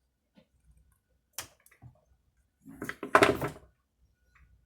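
Adhesive tape being peeled off a chainsaw part: a sharp click about a second and a half in, light handling taps, then a loud, buzzy rip as a strip of tape pulls away about three seconds in.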